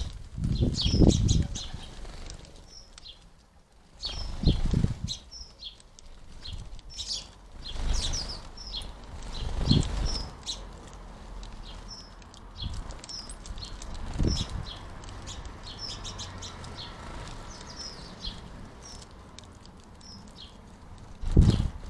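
House sparrows chirping in short, repeated notes, with several bursts of flapping wings as birds fly in to and away from the feeder.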